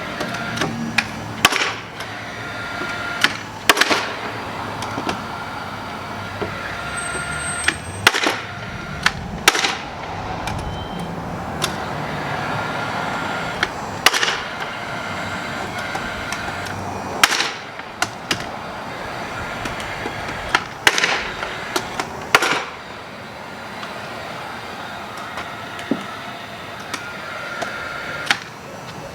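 Building repair work: many irregular sharp knocks and bangs over a steady mechanical hum.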